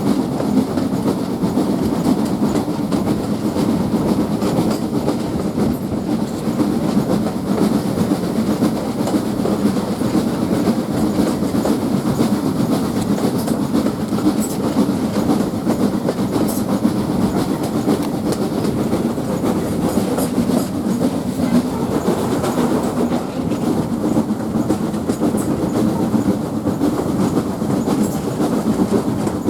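Heritage railway passenger train on the move: a steady rumble of the coaches' wheels running along the track.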